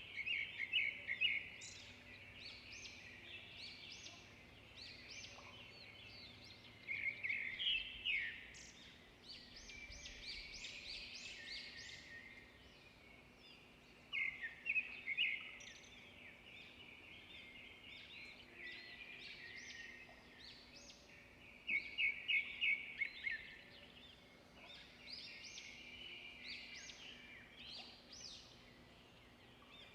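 Songbirds singing: a loud, rapid repeated-note phrase comes back about every seven seconds, with other chirps and short songs in between.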